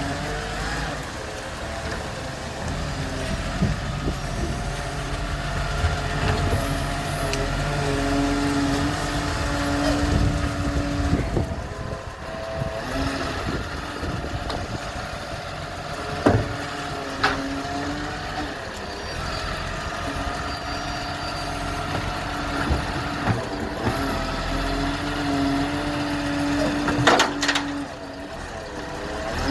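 Garbage truck's diesel engine running, with a steady whine that comes and goes as the hydraulics work, and several sharp bangs of bins being tipped and knocked, the loudest about two-thirds of the way through and near the end.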